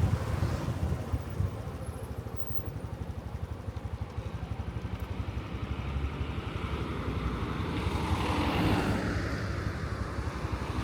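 Small motorcycle engine running slowly with an even low pulsing, about five beats a second. A louder rushing sound swells and fades near the end.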